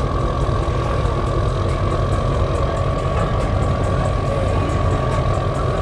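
A vehicle's engine running with a steady, deep, low rumble, as a modified car's exhaust does when idling or creeping along in traffic.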